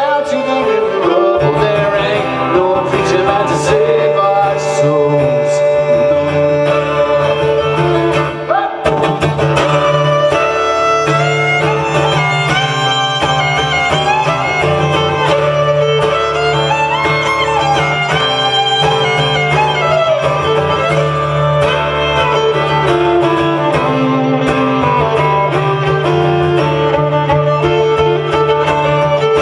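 Live folk music played on acoustic instruments, with a melody moving over a steady low held note.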